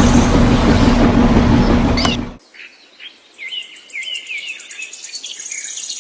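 A loud, steady mechanical hum with a noisy wash over it cuts off abruptly about two seconds in. Quieter outdoor sound with birds chirping in short repeated calls follows.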